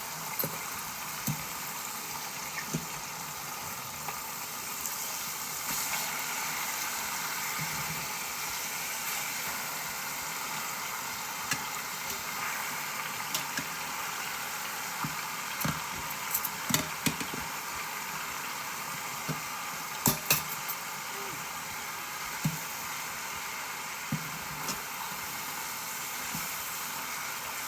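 Seasoned chicken pieces sizzling steadily as they sear in hot oil in an Instant Pot's inner pot. Sharp clicks and knocks come now and then, mostly in the middle of the stretch, from metal tongs against the pot as the pieces are turned.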